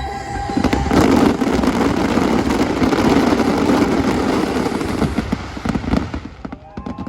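Fireworks finale barrage: a dense, unbroken run of bursts and crackle for about five seconds, thinning to a few separate bangs near the end. The show music fades out just as the barrage begins.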